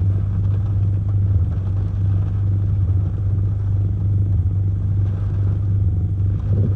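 Steady low hum and rumble inside a van parked in hurricane-force wind, even and unbroken with no gusts standing out.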